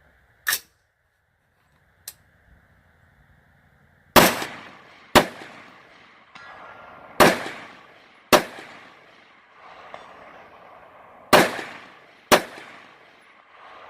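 Precision AR-style rifle fired six times as three double taps, the two shots of each pair about a second apart and the pairs two to three seconds apart. Each shot is followed by a decaying echo. A short sharp snap comes about half a second in, before the shooting starts.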